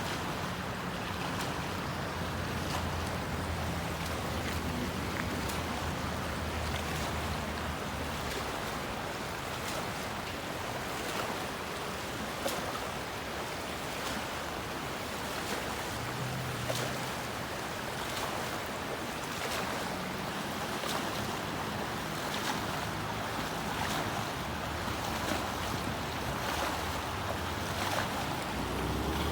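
River water rushing steadily past, a continuous even noise.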